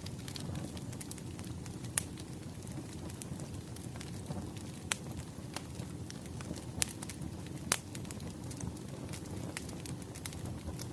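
Wood fire crackling: a steady low rumble of burning logs with irregular sharp pops and snaps, a few louder ones standing out.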